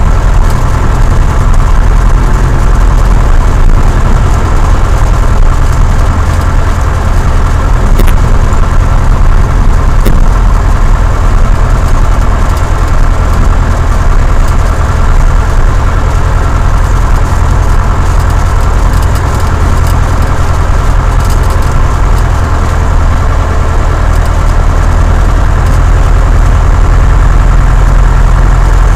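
Cessna 172 light aircraft's piston engine and propeller running steadily and loud, with no change in pitch.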